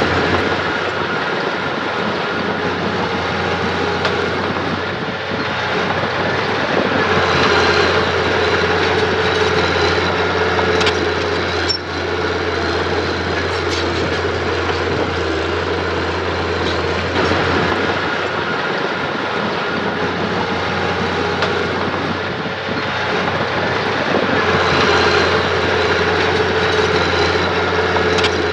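Diesel engine of a Mitsubishi mini bulldozer running steadily as it works. It swells louder and higher a few times as it takes load.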